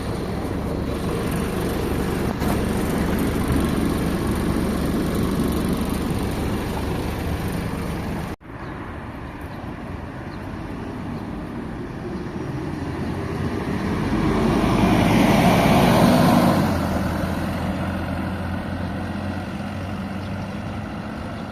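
MAZ 206 city bus on the move, heard from inside: a steady engine drone and road noise. It breaks off for an instant a little before halfway, then swells to its loudest about three-quarters through and settles again.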